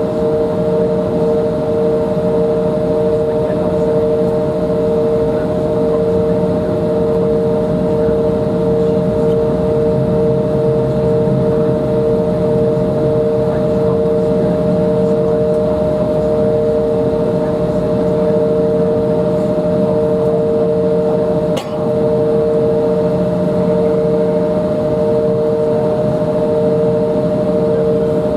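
Embraer 175's General Electric CF34 turbofan engines running steadily, heard inside the passenger cabin: an even rumble with two steady droning tones. A single short click about three quarters of the way through.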